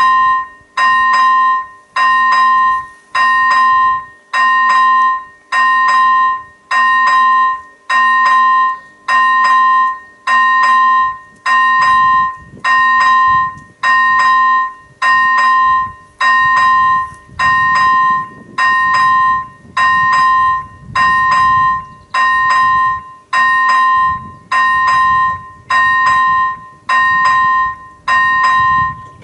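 A bell-like tone struck again and again at the same pitch, about once every 1.2 seconds, each stroke starting sharply and dying away before the next. A faint low rumble sits underneath from about halfway through.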